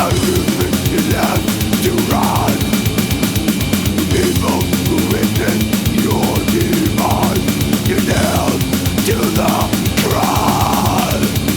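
Death metal recording playing: fast, dense drumming over a thick, heavy low end of guitars and bass.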